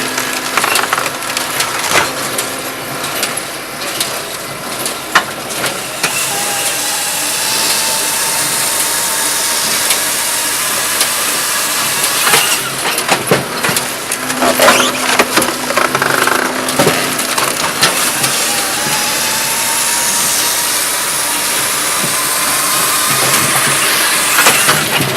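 Firewood processor running, its engine and hydraulics working while logs are split, with scattered wood cracks and knocks. A faint whine rises slowly in pitch twice.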